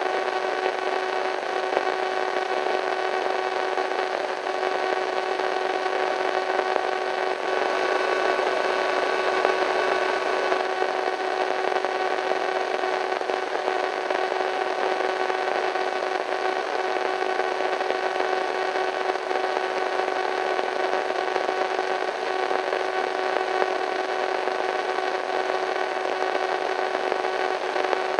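Radio static: a steady hiss of white noise with a faint steady hum laid over it, getting slightly fuller for a few seconds near the middle.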